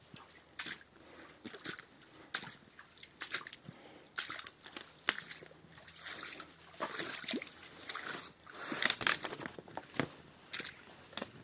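Footsteps sloshing and splashing through shallow bog water and mud, an irregular run of splashes with a busier cluster near the end.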